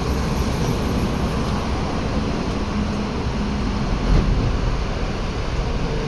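Steady rushing noise of river water, with wind buffeting the microphone as a heavy low rumble. There is a brief low thump about four seconds in.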